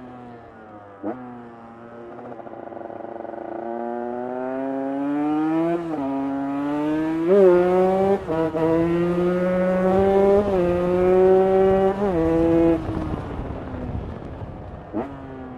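Single-cylinder two-stroke engine of a 2023 KTM 150 EXC supermoto, fitted with a Pro Circuit header pipe and the stock silencer, accelerating hard. Its pitch climbs and drops back at each upshift, then the throttle closes about three-quarters of the way through and the engine winds down.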